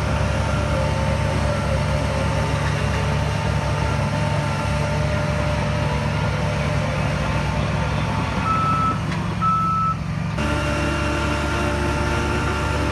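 Heavy diesel engine of an earth-moving machine running steadily under a reversing alarm's high beeping. Two clear beeps stand out about two-thirds of the way in, and the sound changes abruptly just after them.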